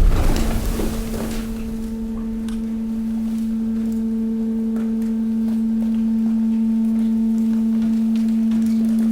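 Hydraulic waste compactor's pump running with a steady hum, slowly growing louder as the ram presses mixed waste. A knock right at the start, and a higher tone joins the hum about a second in.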